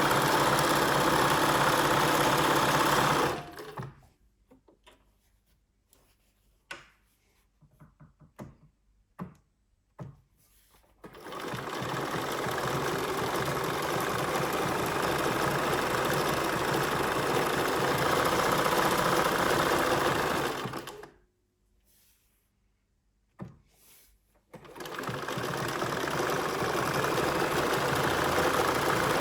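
Bernina 1230 sewing machine running at speed, then stopping. A few light clicks and taps come in the pause before it starts up again. It stops once more and restarts near the end.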